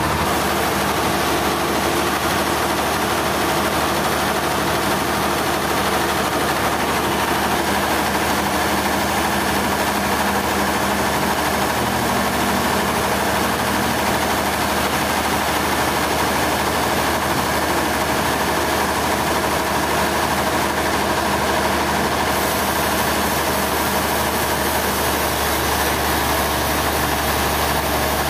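A large engine running steadily at an even speed, with no change in load.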